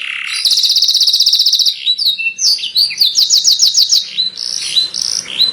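Canary singing: a long, rapid trill of repeated notes, then quick varied chirps and a second rapid trill about three seconds in.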